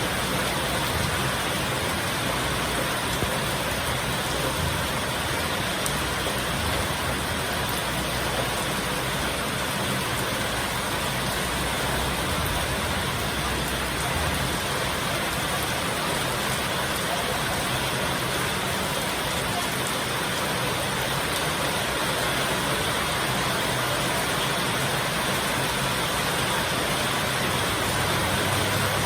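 Heavy rain pouring down, a dense steady hiss that holds even throughout.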